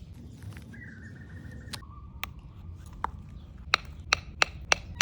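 A series of sharp knocks or taps, coming faster in the second half. Before them, a thin squeaky tone starts about a second in and steps down in pitch.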